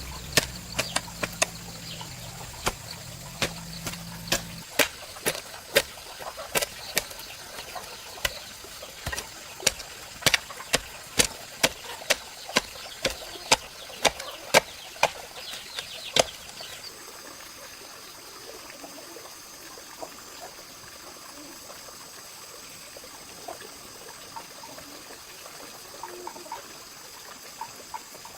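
Sharp chopping strikes repeated about twice a second, which stop suddenly after about sixteen seconds, leaving a steady high hiss with a few thin high tones.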